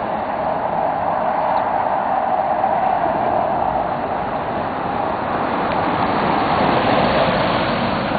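Steady vehicle noise, swelling slightly near the end.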